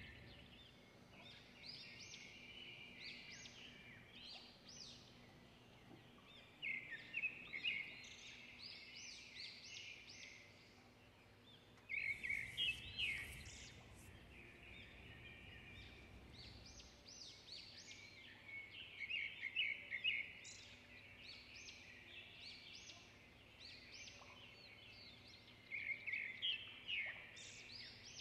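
Birds chirping in phrases of rapid, high, repeated notes, a new phrase every few seconds.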